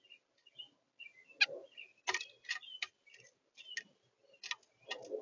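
Irregular sharp clicks and taps, about a dozen, with brief soft bird chirps in between.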